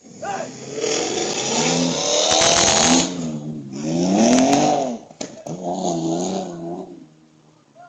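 A car engine revving hard in three surges, its pitch climbing and falling with each, then dying away near the end.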